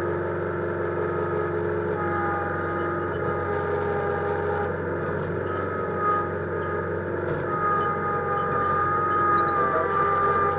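Massey Ferguson 1648 compact tractor's diesel engine running steadily, with a steady high whine over it.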